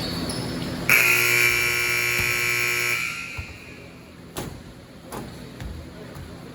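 Basketball scoreboard buzzer sounding once for about two seconds: a loud, steady, harsh electric horn that starts sharply and then cuts off. Two sharp knocks follow.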